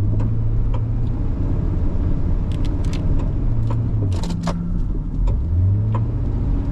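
Truck engine running at low speed, a steady low drone that drops in pitch about four seconds in and comes back up near six seconds. Short clicks and rattles are scattered through it, thickest in the middle.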